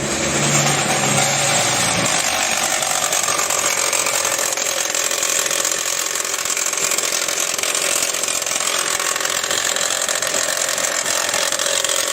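Chevrolet Prisma engine running with a loud, steady grinding rattle from its water pump, which the timing belt drives. The pump's bearing has failed and its shaft has worked loose with a lot of play.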